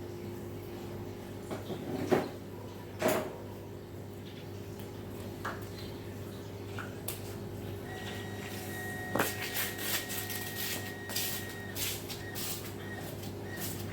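Scattered knocks and clicks of objects being handled over a steady low hum, with a denser run of clicks in the second half.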